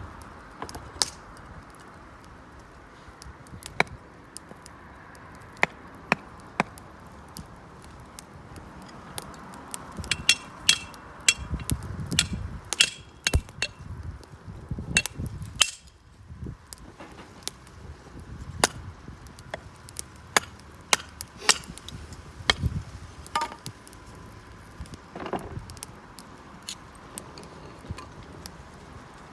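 Wood fire crackling with irregular sharp pops, mixed with a few ringing metallic clinks, busiest from about ten to fifteen seconds in.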